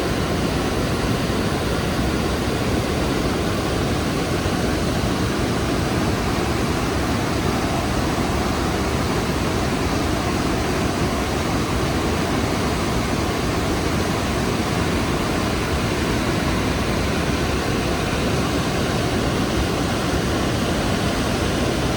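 The water of Rhine Falls, a large river waterfall, pouring in a steady, even rush that does not change.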